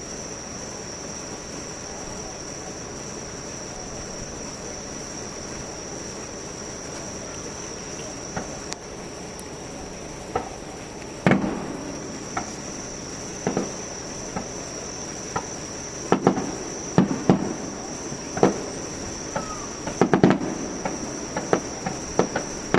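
Fireworks bursting in sharp bangs, a few at first from about ten seconds in, then coming quicker near the end, over a steady high chirring of insects.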